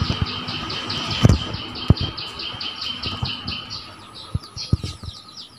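Birds chirping in a rapid, even series of about eight notes a second over a steady high trill, fading out past the middle. A few dull thumps stand out above it.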